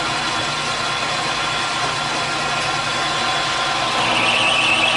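Metal lathe running under power, taking a turning cut with the feed engaged: a steady machine hum, with a high whine joining in about four seconds in.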